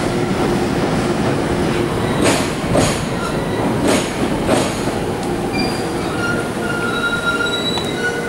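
JR Joban Line commuter electric train running slowly along the platform with a steady rumble. Its wheels click over rail joints several times in the first half, and thin high-pitched wheel squeals follow in the second half.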